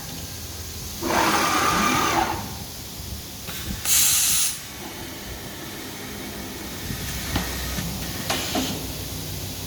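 CNC woodworking router running with a steady low hum, broken by short hisses of compressed air: a longer one about a second in, a sharp high hiss about four seconds in, and a shorter one near the end.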